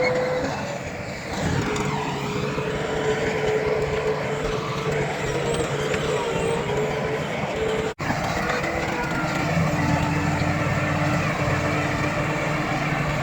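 Engines of heavy earthmoving machines running steadily, with a held mechanical tone that wavers slightly. About eight seconds in the sound drops out for an instant.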